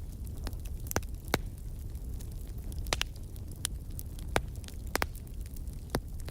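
Wood fire in a fireplace crackling: sharp, irregular pops and snaps over a low, steady rumble of the flames.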